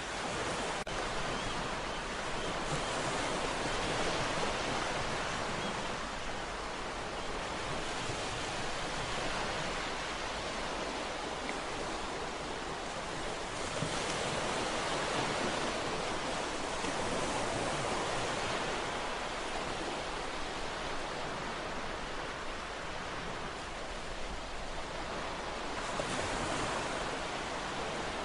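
Ocean waves breaking and washing onto a shore, a steady hiss of surf that swells and eases every few seconds.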